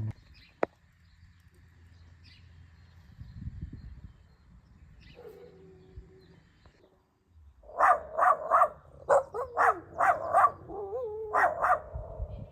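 A dog barking in a rapid series of about ten sharp barks that begins a little past halfway through, after a quiet stretch.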